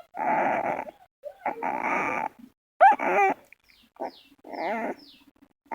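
Pahadi dog puppy growling in two rough bursts, then giving two shorter whining yelps that slide up and down in pitch.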